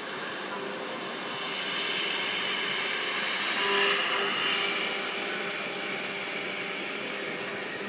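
A 5-axis CNC router running: a steady machine hum with a hiss over it, swelling louder and brighter about four seconds in.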